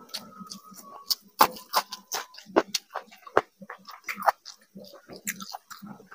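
A person chewing a mouthful of rice and curry close to the microphone: irregular wet mouth clicks and smacks, a few sharp ones each second, over soft low thuds of the jaw.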